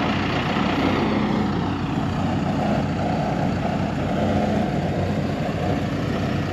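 Heavy engine of tree-removal equipment running steadily, a continuous low hum with no breaks or bursts.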